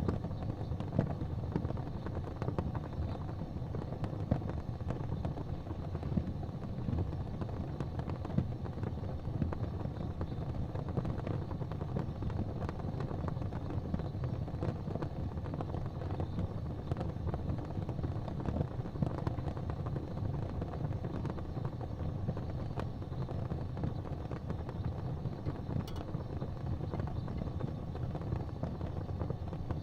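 Fireplace fire burning: a steady low rumble with occasional small crackles and pops.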